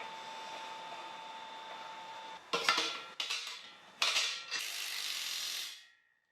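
Metal parts clanking and scraping against each other: four sharp knocks, then a scraping rush that stops a little before the end, over a steady faint hum.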